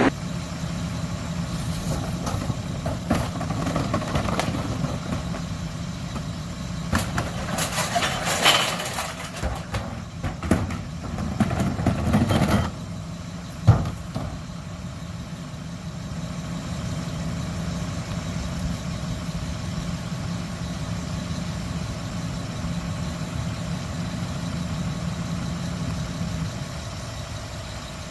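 Garbage truck engine idling steadily, with irregular clatter and knocks for several seconds in the first half and one sharp knock about 14 seconds in.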